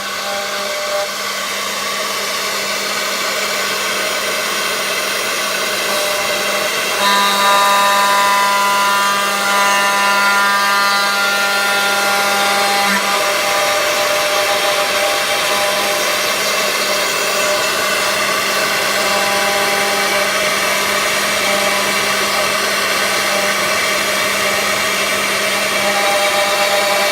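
CNC router spindle running and cutting: a steady machine whine of several held tones over a continuous cutting hiss. The tones grow stronger from about seven seconds in and ease back at about thirteen seconds.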